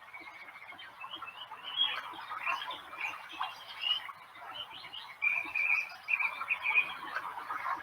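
Birds chirping and singing, many short high notes and quick trills overlapping, with a run of repeated steady notes about five seconds in.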